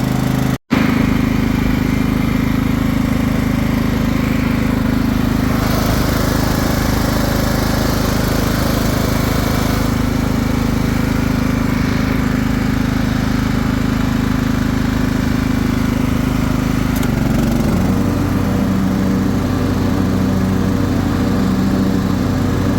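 Craftsman LT1000 riding lawn mower engine running steadily just after starting. About three-quarters of the way through its note shifts slightly lower.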